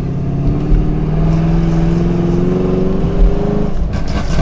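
Chevrolet Camaro SS's 6.2-litre LT1 V8 with long-tube headers accelerating at part throttle, its pitch climbing slowly for a few seconds. Near the end the throttle comes off and the note drops away, with a short run of exhaust crackles from the burble tune's off-throttle setting.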